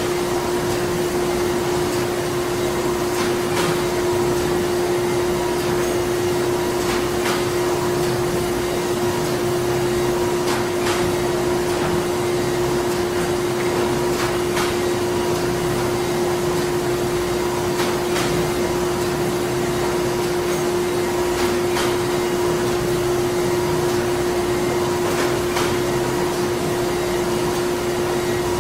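Printing-plant machinery running steadily: a constant drone with one held mid-pitched tone, and faint clicks now and then.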